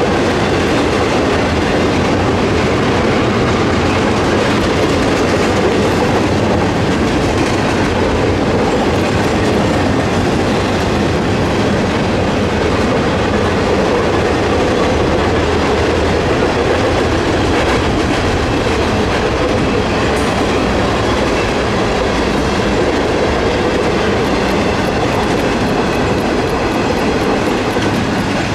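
Norfolk Southern intermodal freight cars rolling across a railroad bridge: a steady loud rumble and clatter of wheels on the rails.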